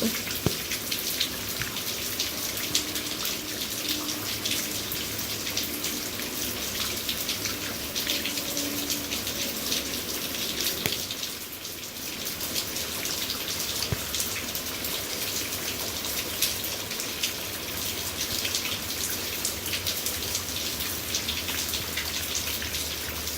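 Heavy rain pouring down in a steady hiss, with many individual drops ticking close by.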